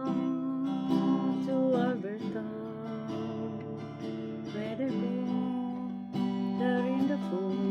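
Instrumental folk music: an acoustic guitar strummed in a steady rhythm under a held, slightly bending melody line.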